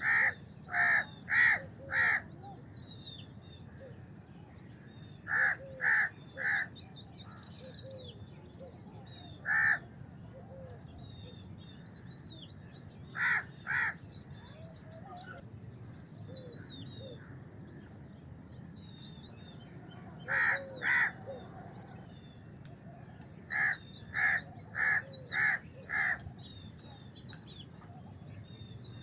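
House crow cawing in short runs of two to five harsh caws, with several seconds between runs. Smaller birds chirp and twitter steadily in the background.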